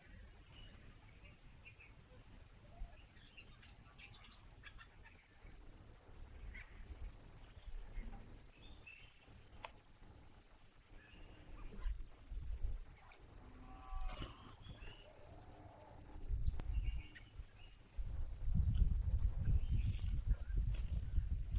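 Steady high-pitched insect drone with short bird chirps scattered through it. Low rumbling comes in bursts near the end.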